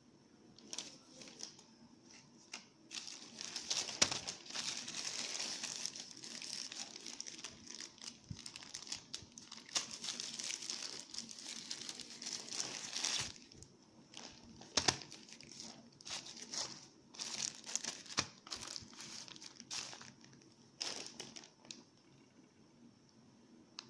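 Packaging from a smartphone unboxing crinkling and rustling as it is handled, in irregular stretches with a few sharp clicks, stopping about two seconds before the end.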